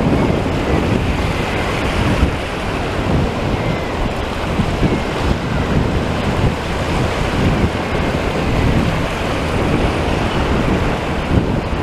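Strong sea wind buffeting the microphone with a loud, steady rumble, over waves breaking at the water's edge.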